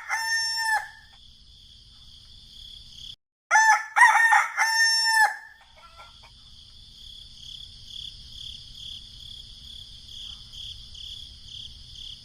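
A rooster crowing: one crow tails off just after the start, and a second full crow comes about three and a half seconds in. Then a steady, pulsing, high-pitched insect chirring, about two pulses a second, runs to the end.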